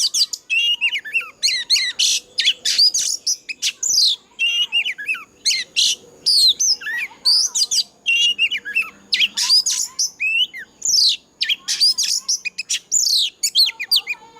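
Oriental magpie-robin singing a fast, varied song of clear whistled notes, slurs and trills, phrase after phrase with hardly a break. It is the full song of a mature wild bird.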